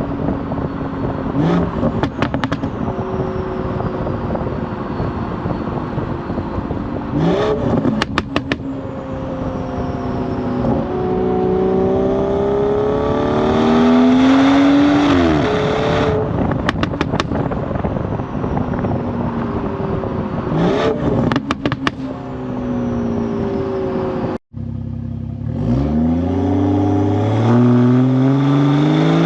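BMW 440i's Gen 1 B58 turbocharged straight-six exhaust, tuned for burbles, pulling through the revs with a rising note and then falling back off the throttle. Each lift-off brings a short burst of crackles and pops from the burble tune, four times over. Near the end the sound cuts out for an instant, then the engine note climbs again.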